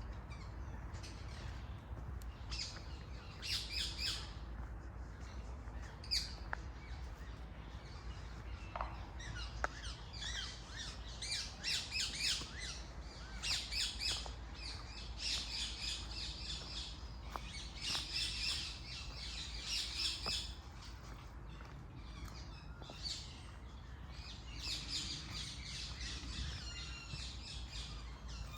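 Birds squawking and chirping in repeated harsh bursts, with a short lull about two-thirds of the way through, over a steady low rumble.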